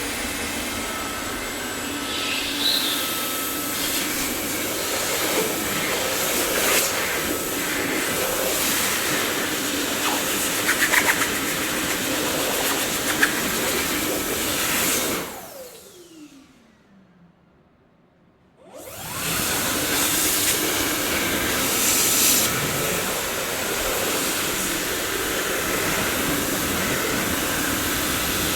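Dyson vacuum cleaner running with a steady rushing hiss and a few sharp rattles, then switched off about halfway through: its motor whine falls in pitch as it spins down, there are a few seconds of near silence, and it is switched back on and runs steadily again.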